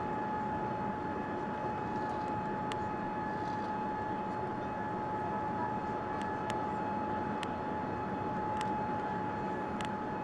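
Steady cabin noise of a Boeing 787-9 airliner in flight: an even rush of engine and airflow noise with a steady high whine running through it. A few faint clicks sound over it.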